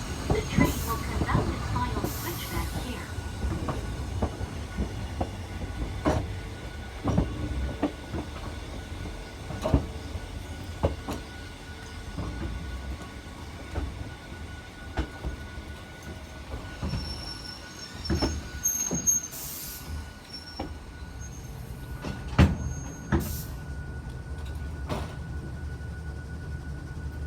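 Hakone Tozan Railway mountain train running with a steady low rumble, its wheels knocking irregularly over rail joints every second or two. A few brief, sharp high-pitched sounds come in, the strongest near the end.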